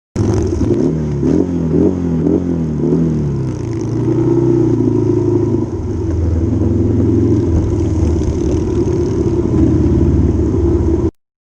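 Motorcycle engine running on the road, its pitch rising and falling several times in the first three seconds as the throttle is worked, then holding a steadier drone until it cuts off abruptly near the end.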